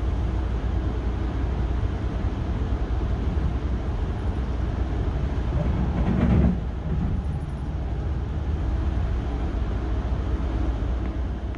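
Metrolink passenger train running along the rails: a steady, heavy rumble of wheels and running gear, with a brief louder swell about six seconds in.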